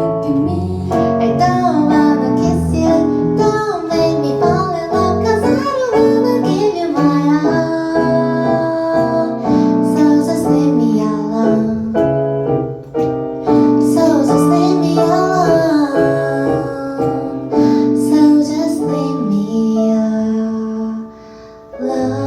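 A woman singing a slow pop-jazz song with keyboard accompaniment, played live; the music dips briefly near the end before coming back in.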